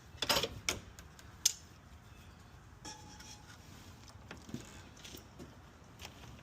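Metal parts and hand tools clinking and clattering: a quick cluster of sharp clinks in the first second and a half, then a few fainter taps.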